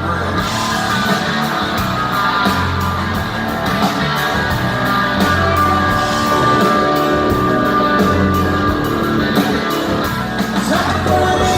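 Live rock band playing, with electric guitar to the fore over bass and drums, the cymbals keeping a steady beat.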